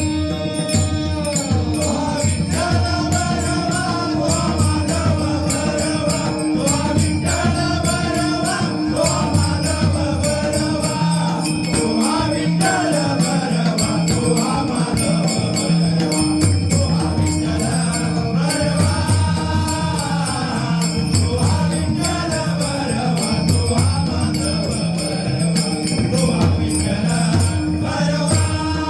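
A male voice singing a Marathi devotional abhang in long, gliding phrases, accompanied by pakhawaj drumming and small hand cymbals keeping a steady beat over a sustained drone.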